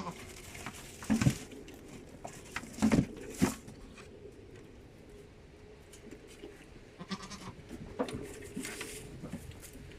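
A short bleat-like animal call about seven seconds in, with several sharp knocks or bumps around it.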